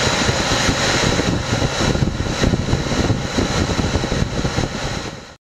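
Walk-in freezer's refrigeration unit running: a steady machine noise of fans and motor with a faint high whine. It cuts off abruptly near the end.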